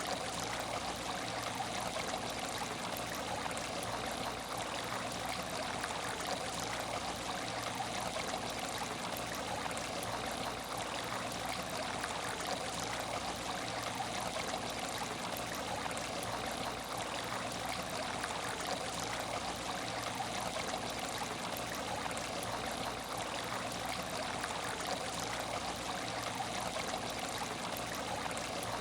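Water in an aquarium tank trickling and splashing steadily, an even, unchanging flow.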